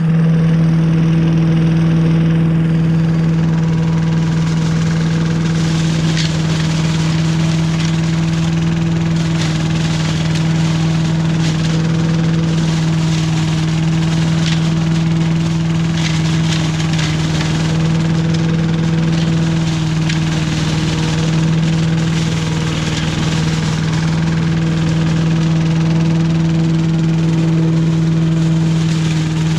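Billy Goat Estate leaf vacuum's engine running at a steady speed, with brief crackles now and then.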